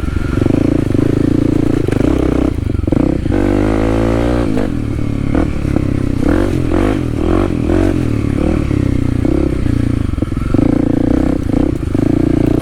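Kawasaki KLX300's single-cylinder four-stroke engine revving unevenly as the dirt bike is ridden through deep, sloppy mud, with a rising rev about three seconds in and clattering knocks along the way.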